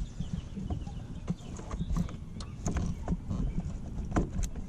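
Irregular clicks and knocks of hands working at plastic parts under a car dashboard: the blower cover and a sensor connector being handled and pried at.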